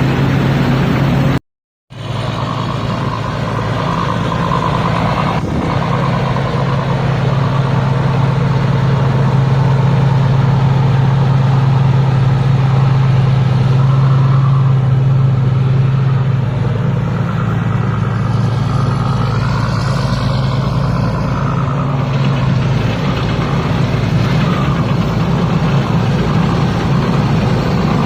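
Diesel engine of a Thai Seng Yont combine harvester running steadily at a constant speed, with a brief total dropout about one and a half seconds in.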